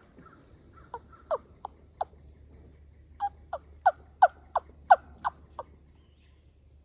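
Turkey yelps: about a dozen short notes, each dropping in pitch. A few come first, then a run of about eight at roughly three a second, getting louder and then fading off.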